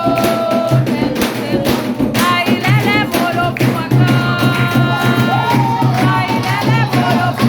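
Candomblé ritual music: drums beating a steady rhythm while voices sing a chant, with wavering sung notes over the drumming.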